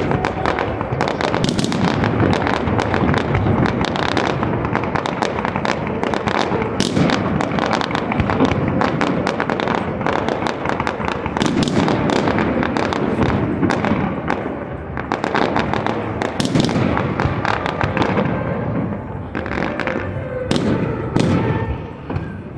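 Fireworks display: a dense, rapid barrage of bangs and crackling, thinning out near the end.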